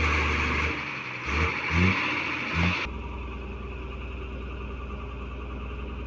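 Heavy truck engine revving under load. About three seconds in, the sound changes abruptly to a steadier, even engine note.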